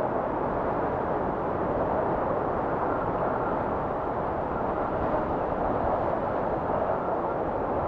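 Strong blizzard wind blowing steadily, a dense rush with a faint high whistle running through it and slight swells in strength.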